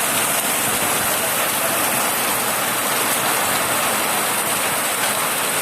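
Rain falling steadily, mixed with hailstones.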